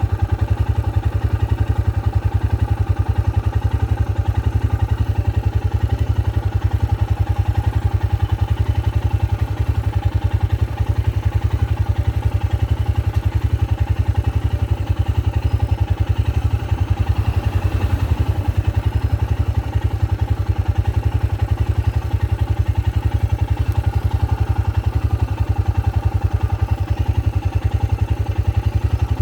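Vehicle engine idling steadily, a loud, even low rumble.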